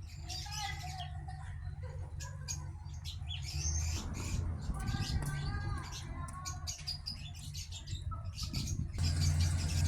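Small birds chirping and twittering in short repeated calls, over a steady low hum that grows louder near the end.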